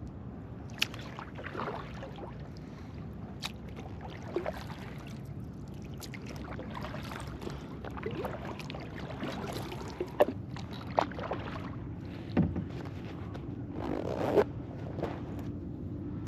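Kayak paddling on calm water: the paddle blades dip and drip with uneven splashes, and sharp knocks now and then, the loudest one near the end, over a steady low hiss.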